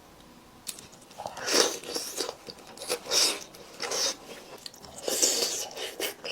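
Close-miked biting and chewing of braised chicken: after a short quiet start, a string of irregular chewing sounds, one or two a second.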